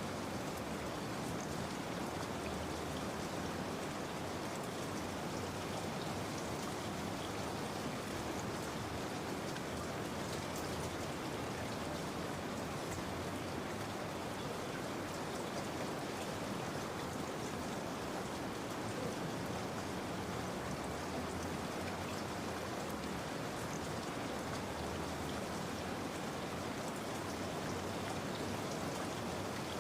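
Steady rain falling, with fine scattered drop patter and no let-up.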